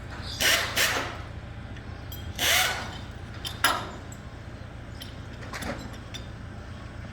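Workshop tool noise: four short, sharp bursts of a power tool or air tool over a steady low hum.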